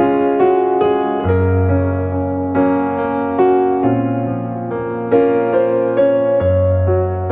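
Background music played on piano or electric piano, a gentle melody of evenly spaced notes over bass notes that change every second or so.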